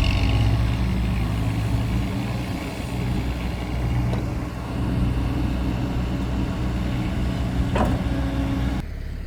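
Diesel dump truck engine running steadily, with a low even hum over rough noise, easing briefly about two and a half seconds in. The engine sound cuts off abruptly near the end.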